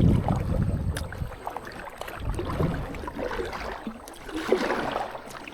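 Wind buffeting the microphone for about the first second, then faint water splashing and sloshing with a few light knocks, as around a kayak on the water.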